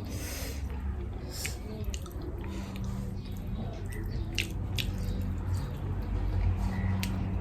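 Close-miked eating of curry and rice: wet chewing and mouth sounds, with a few sharp clicks spread a second or more apart.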